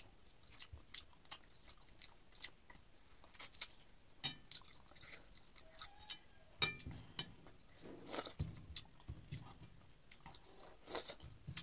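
A person chewing a mouthful of rice and mustard fish curry eaten by hand, close to the microphone: irregular mouth smacks and short clicks, busiest in the second half.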